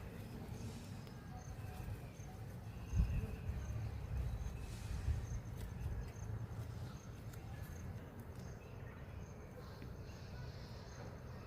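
Faint, evenly repeated high chirps, about two a second, with a few softer short calls, over a steady low rumble.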